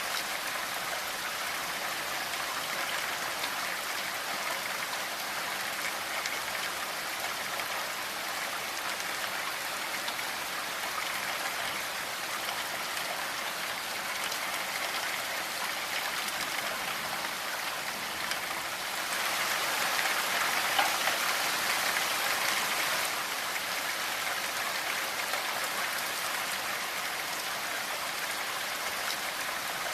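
Steady rainfall, an even hiss of drops with a fine patter, swelling louder for a few seconds past the middle before easing back.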